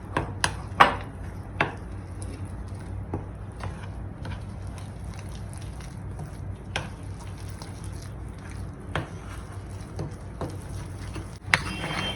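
A spoon mixing flour into a wet dough in a mixing bowl: a few sharp knocks against the bowl in the first two seconds, then occasional soft clinks, over a steady low hum.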